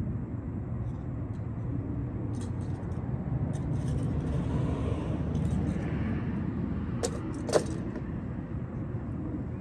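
Steady low rumble, like a running vehicle engine or traffic, with a handful of sharp clicks and taps scattered through it, the loudest about seven and a half seconds in.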